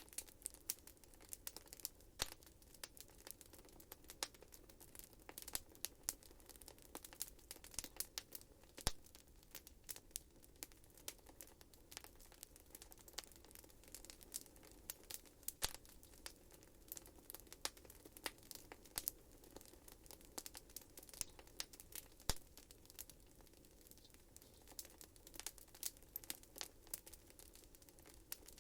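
Wood fire burning in a fireplace, crackling and popping with many sharp, irregular snaps over a faint steady hum.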